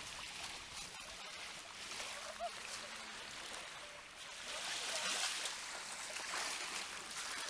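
Faint washing of water, a steady hiss that swells about halfway through.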